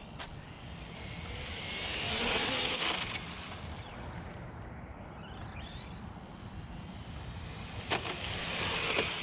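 Electric radio-controlled car running on pavement. Its motor whine rises and falls as it speeds up and slows, over tyre noise. Two short clicks or knocks come near the end.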